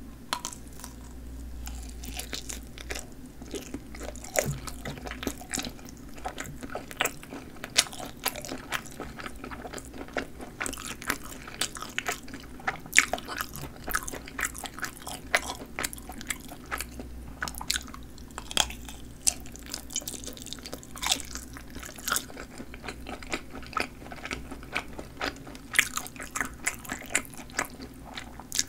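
Close-miked eating of sausages with snappy casings: a bite, then continuous wet chewing with many sharp, irregular crisp clicks and snaps.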